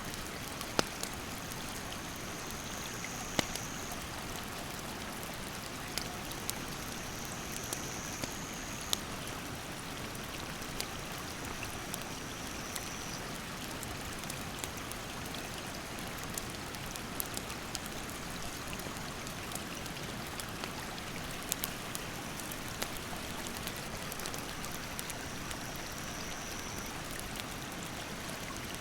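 Steady rush of a mountain stream with a wood campfire crackling in scattered sharp pops. A high, thin insect call sounds several times in the first half and again near the end.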